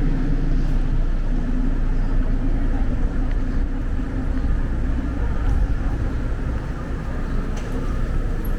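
Steady low rumble of city street traffic, with vehicle engines running.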